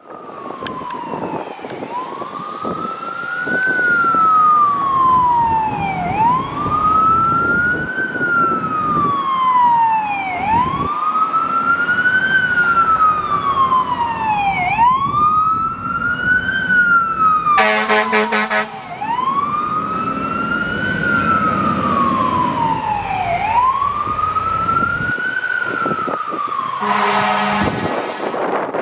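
Fire ladder truck responding with its siren on a slow wail, rising and falling about every four seconds over the rumble of the engine. Two horn blasts of about a second and a half each cut in, about two-thirds of the way through and again near the end.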